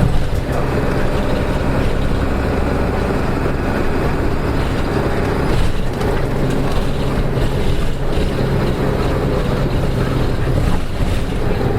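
Nissan Diesel KK-RM252GSN city bus's diesel engine running steadily while under way, heard from inside the cabin over road noise. The engine's sound is abnormal on this bus.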